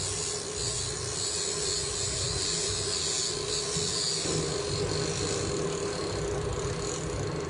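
Fishing boat's engine running steadily with a constant low hum, under an even hiss of wind and water.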